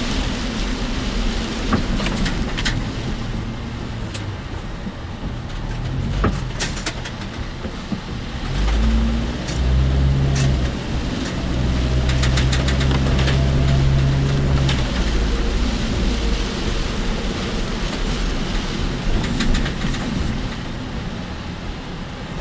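A car driving in typhoon rain and wind, heard from inside the cabin. Steady road and engine noise runs throughout, with scattered sharp ticks. A deeper low hum swells for several seconds around the middle.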